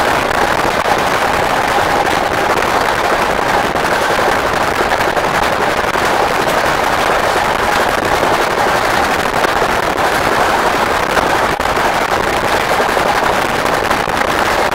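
A train running on the rails: a steady, loud rushing noise with a dense, rapid crackle and rattle running through it.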